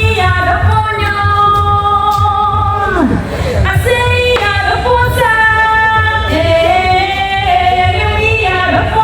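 Live singing with band accompaniment through a stage PA during a sound check. Long held sung notes slide between pitches over a steady pulsing bass, with a brief break about three seconds in.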